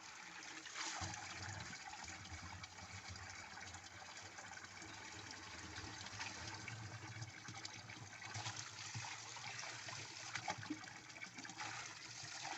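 Water running steadily at a stream-side water point, with a few faint knocks.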